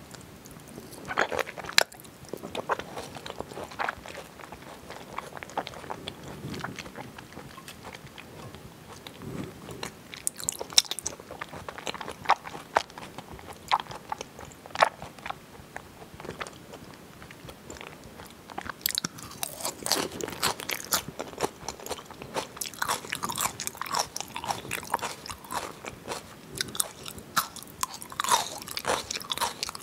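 Close-miked chewing of raw salmon and crisp salad leaves: wet mouth clicks and irregular crunching, sparse at first and busier in the second half.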